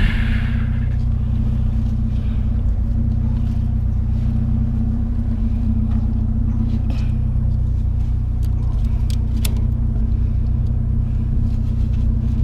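Pickup truck engine idling steadily, with a few sharp clicks about nine seconds in.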